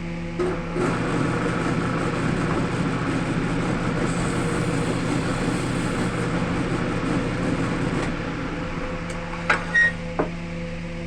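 Wood lathe running with a steady hum. A turning tool or sandpaper works the spinning wood for several seconds with a rough, even noise, which then eases off, and a few sharp knocks follow near the end.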